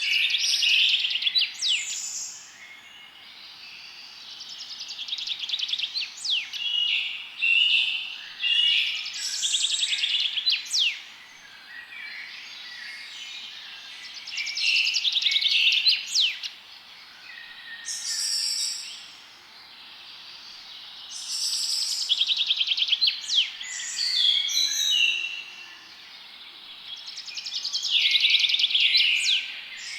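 Forest songbirds singing: bright trilled phrases and quick whistled sweeps, one after another every few seconds, over a faint steady hiss.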